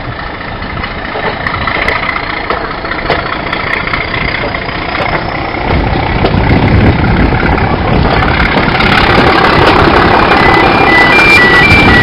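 Train carriage running along the track, heard through an open carriage window, getting louder about six seconds in. Near the end, a level crossing's electronic warning alarm sounds: two alternating tones beeping in a regular pattern.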